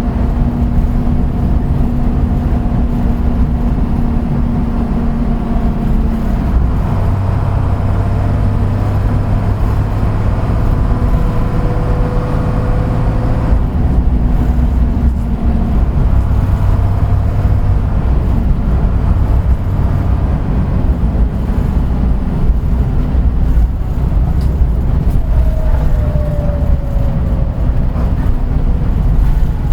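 Route bus under way: its engine and drivetrain running steadily, the engine note stepping to a new pitch several times, with a falling whine near the end.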